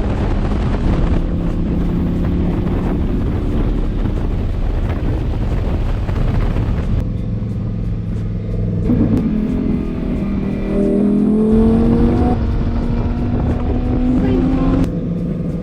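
Lamborghini Huracán's V10 engine heard from inside the cabin under hard driving, the revs climbing steadily through a gear in the second half and dropping sharply at a shift near the end.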